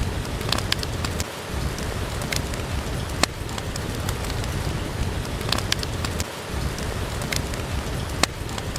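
Steady rain falling, with a few sharp, scattered crackles and pops from a wood fire in a fireplace.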